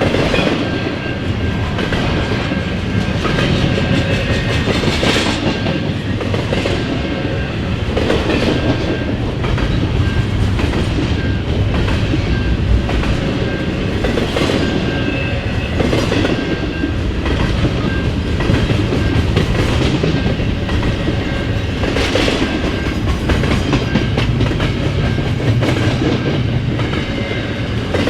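Freight train of intermodal cars rolling steadily past, wheels clacking over rail joints in an uneven rhythm over a continuous rumble.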